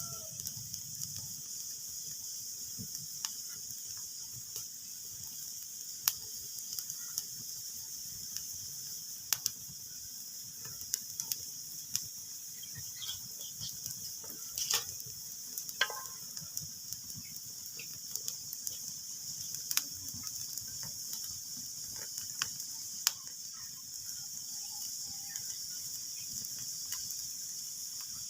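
Wood fire crackling: irregular sharp pops and snaps over a steady high hiss.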